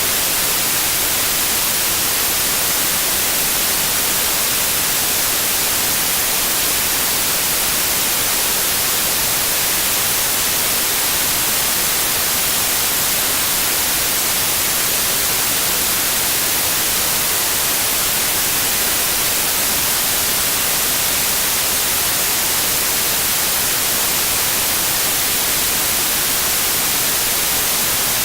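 Steady white noise: an even, unbroken hiss, brightest in the high frequencies, with no change throughout.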